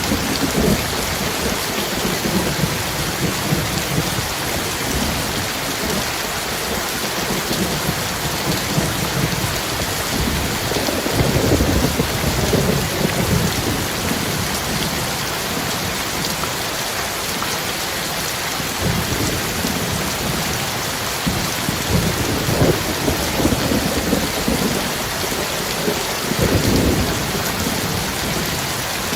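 Heavy rain falling steadily as a dense hiss, with thunder rumbling low several times: near the start, about a third of the way in, for a long stretch past the middle, and again near the end.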